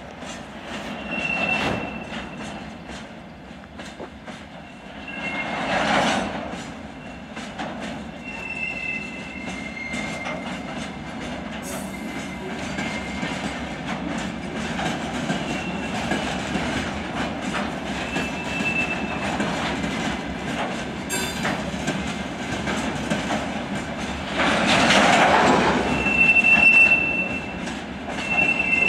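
A long string of empty open freight wagons rolling slowly behind a shunting locomotive, wheels squealing in thin high tones that come and go over a steady rumble and clatter of steel wheels on rail. The rolling noise swells twice, about six seconds in and again near the end.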